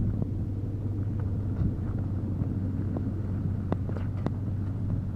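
A truck engine runs steadily, a low drone, while towing a sled over snow, with wind on the microphone. A few sharp clicks come about four seconds in.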